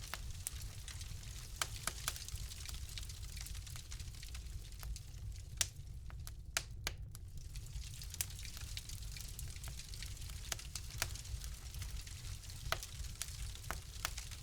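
Fire crackling in a fireplace: irregular sharp pops and snaps over a steady hiss and low rumble, with a few louder pops around the middle and near the end.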